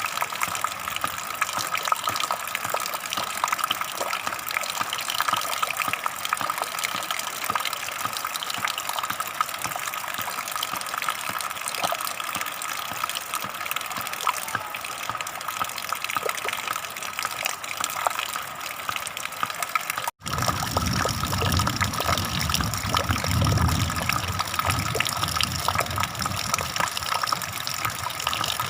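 Running water, a steady gushing rush. About two-thirds of the way through it cuts out for an instant and comes back with a deeper rumble underneath.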